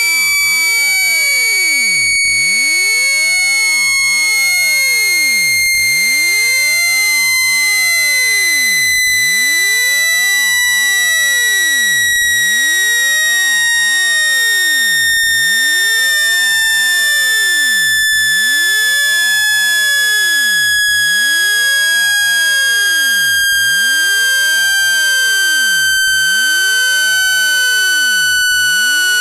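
Synthesized speaker water-eject tone: a single loud, steady, high electronic tone with harsh overtones, sliding slowly and evenly down in pitch, played to shake water out of a phone speaker.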